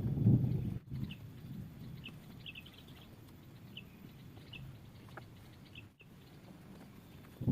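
Small birds chirping: short high chirps, scattered about every half second, over a faint low background rumble that is loud for the first second.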